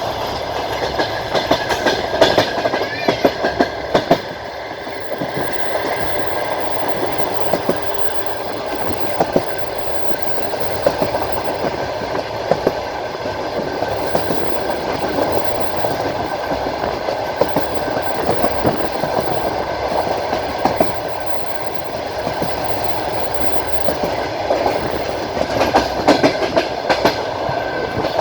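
Train wheels clacking over rail joints under a steady running rumble, heard riding aboard the moving train, with quick runs of clacks near the start and again near the end.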